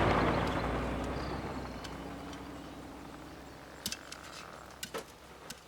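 Cartoon sound effect: a loud rushing noise that fades away over several seconds, then a few short sharp clicks near the end.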